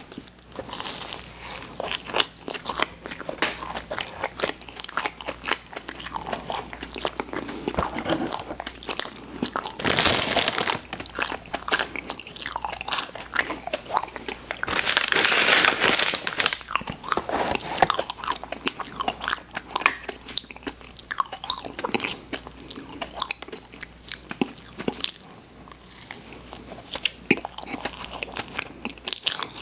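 Close-miked eating of sweets: biting and chewing with many small wet mouth clicks, and two louder stretches of chewing about ten and fifteen seconds in.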